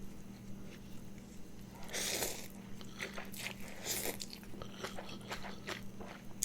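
Close-up eating sounds of a person chewing and biting into a mouthful of noodles and crunchy toppings, with wet mouth clicks and smacks and two louder noisy bursts about two and four seconds in.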